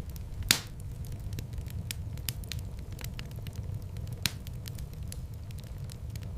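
Fireplace fire crackling: frequent sharp pops and snaps over a steady low rumble of flames. One loud pop comes about half a second in and another just after four seconds.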